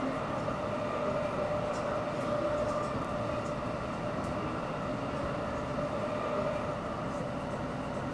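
Electric Shinkaisoku (Special Rapid) commuter train running, heard from inside the passenger car: a steady rumble with a constant tone, no change in speed.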